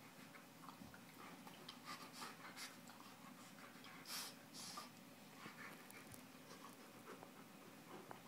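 Faint scuffling and scratching of a dog and a cat play-fighting: a scattering of short scrapes and rustles, the loudest about four seconds in.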